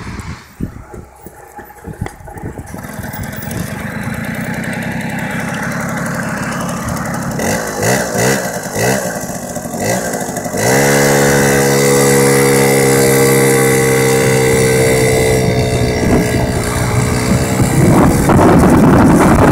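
Small Piaggio two-stroke engine with a 38.2 mm cylinder, 12 mm carburettor and SITO exhaust. It sputters into life, then settles to a steady run and is blipped a few times, the revs rising and falling. About halfway through it jumps to high revs and holds them steadily, turning rougher near the end.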